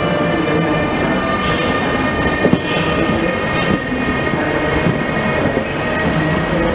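Passenger coaches of an express train rolling past close by: a steady rumble of wheels on rail, with a thin, steady high squeal from the wheels on the curve and a couple of sharp clacks.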